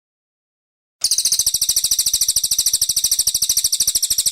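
Brown cililin bird singing a fast, even trill of high notes, about fourteen a second, starting about a second in.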